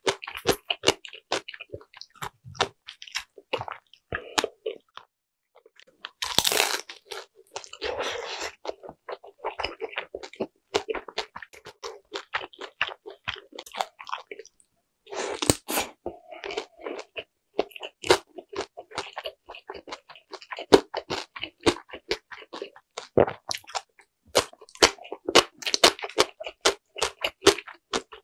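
Close-miked chewing and biting of crisp air-fried dumplings: a rapid run of crunching clicks with short pauses, and two louder bursts about six and fifteen seconds in.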